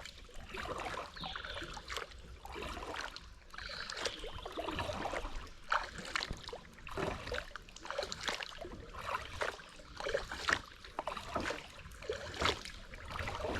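Kayak being paddled upstream against a current: paddle blades dipping and splashing in the river water, with scattered sharp clicks.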